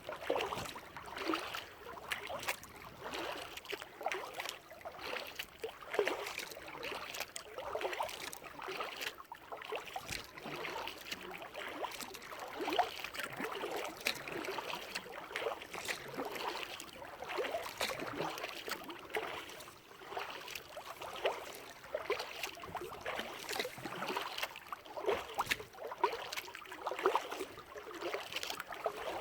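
Water splashing and trickling around a paddled kayak: the paddle blades dip in and water runs off them in a continuous, irregular patter.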